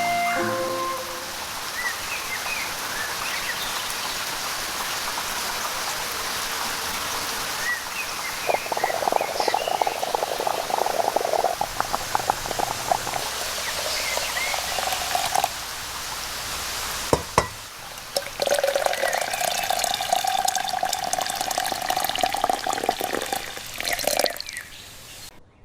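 Steady rain falling, with two longer stretches of louder splashing, pouring water, the first about a third of the way in and the second past the middle. A few faint high chirps sound over it.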